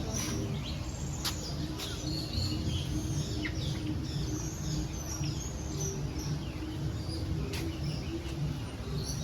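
Many birds chirping and calling at once, with quick sharp chirps and short whistled sweeps overlapping throughout, over a steady low background rumble.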